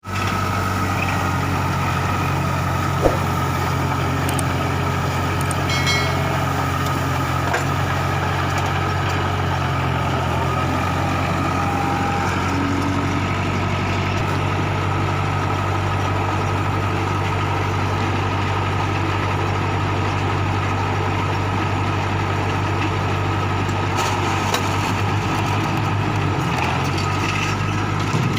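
Kubota MU4501 tractor's diesel engine running steadily at a constant speed, with a single sharp click about three seconds in.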